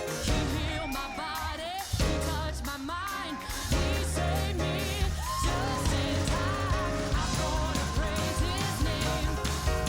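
Church worship music: a singer with wavering, held notes over a band with bass and a steady drum beat. The band gets fuller about four seconds in.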